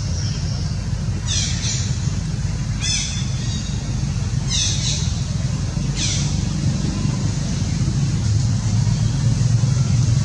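A bird calling four times, short high calls that each drop in pitch, spaced about a second and a half apart, over a steady low rumble and a constant high hiss.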